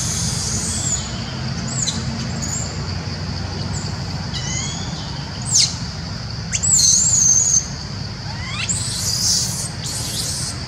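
Wild birds calling: scattered high chirps and quick whistled notes, some sweeping down sharply and one warbling about two-thirds of the way through, over a steady low hum.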